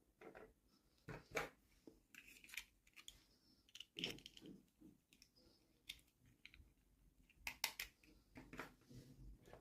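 Faint, scattered clicks and short crackly rustles of small plastic toy parts and packaging being handled, with busier clusters about a second in, through the middle and near the end.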